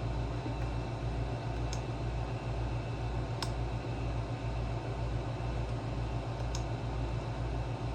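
Room air conditioner running with a steady low hum that pulses slightly, with a few faint clicks spaced well apart.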